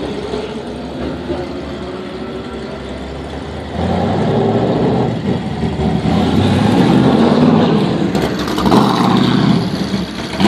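Ferrari F40's twin-turbo V8 running at idle, then louder from about four seconds in, its note rising and falling as it is revved.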